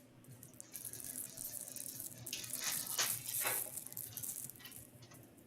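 Foil trading-card pack wrapper crinkling as it is torn open and handled, a rustle with a few sharp crackles in the middle.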